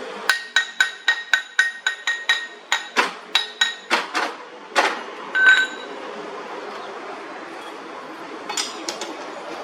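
Hammer striking steel in quick, even blows, about four a second, each blow ringing. The run lasts roughly four and a half seconds and ends in one louder ringing clank; a few light knocks come near the end.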